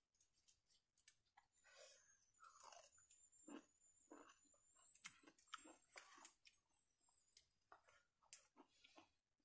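A person chewing food close to the microphone: quiet, irregular mouth smacks, soft crunches and clicks.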